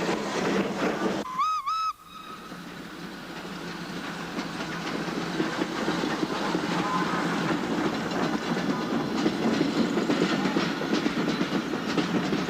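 Steam locomotive whistle giving two short toots about a second in, then a steam train running, its sound growing steadily louder as it draws closer.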